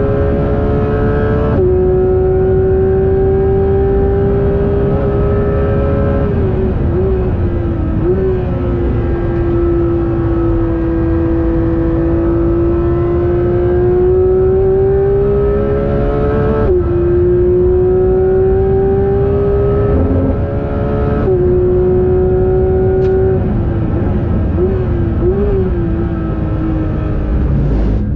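Porsche 992 GT3 RS's naturally aspirated flat-six running at high revs under hard track driving, heard from inside the cabin. The engine note climbs steadily, then steps down abruptly three times at quick PDK upshifts, and sags and wavers as the car brakes and turns.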